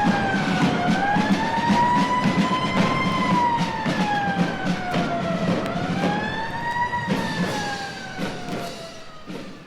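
Emergency vehicle siren wailing, its pitch rising and falling slowly about every three seconds over a low engine rumble, fading out near the end. Vinyl surface pops and crackle throughout.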